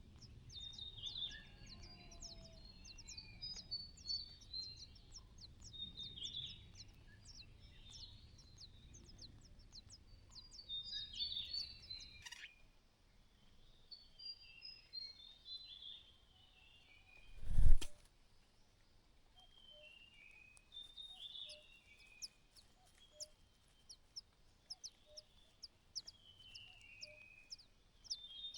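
Birds chirping: many quick, high, sharp notes and short falling calls, repeated throughout. About two-thirds of the way through comes one sudden loud thump, the loudest sound here, and a low background rumble stops about halfway in.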